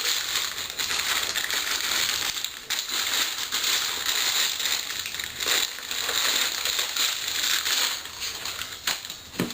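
Packaging rustling and crinkling continuously, with scattered small clicks and knocks, as an exhaust header is unwrapped and pulled from its box.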